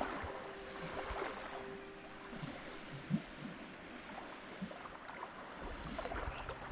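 Wind and water noise at a shore, with a faint steady hum and a few faint short ticks.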